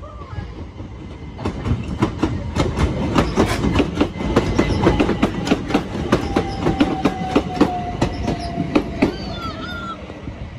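Southern Class 377 Electrostar electric train running past close by, its wheels clattering rapidly over the rail joints and points for most of the pass. A steady whine sags slightly in pitch through the second half and stops about nine seconds in.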